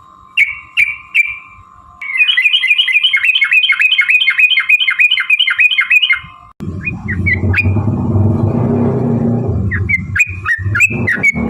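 Yellow-vented bulbul calling: three short notes, then a fast run of about sixteen repeated notes lasting some four seconds, then more short chattering notes near the end. A loud low rumbling noise covers the stretch after the run, and a faint steady tone sits under the first half.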